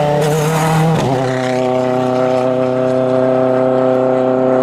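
Rally car engine running at steady, held revs, a constant droning note that settles about a second in.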